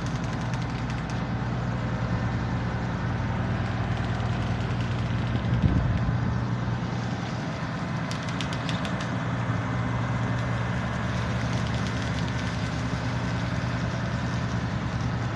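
An engine running steadily with a low, even hum, swelling briefly louder about five and a half seconds in.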